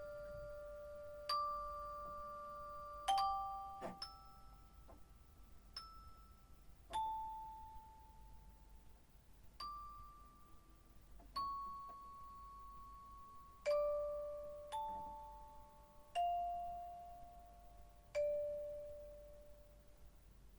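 Slow, sparse bell-like chime tones: about a dozen single notes struck one to three seconds apart at varying pitches, each ringing out and fading.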